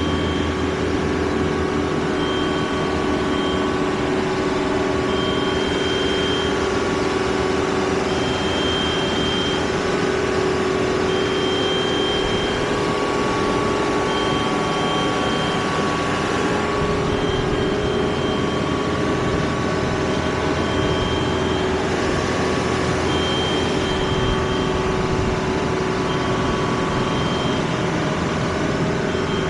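A vehicle engine running steadily, with a high warning beep of about a second repeating roughly every three seconds.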